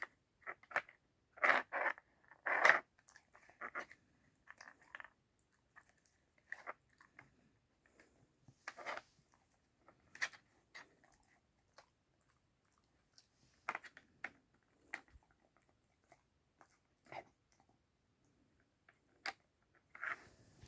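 A dachshund crunching and chewing dry treats taken from a treat puzzle toy, with scattered short clicks and knocks of the puzzle pieces, loudest in the first few seconds and sparser after.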